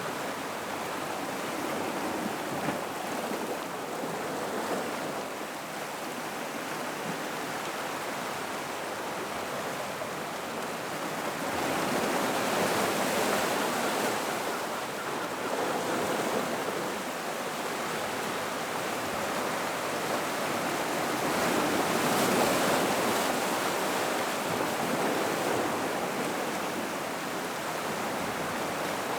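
Gentle ocean waves washing and splashing around a rock pool: a steady rush of water that swells louder twice, about twelve seconds in and again around twenty-two seconds.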